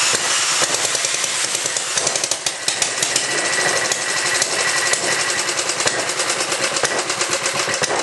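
Antique Ironhorse small gas engine running just after a cold start, with a rapid, sharp, somewhat uneven firing beat.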